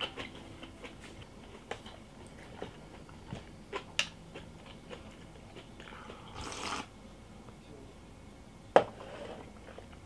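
Close-up chewing of a lettuce wrap of boiled pork, kimchi and radish: soft crunching and small mouth clicks. About six seconds in comes a short sip from a glass, and near the end a single sharp click.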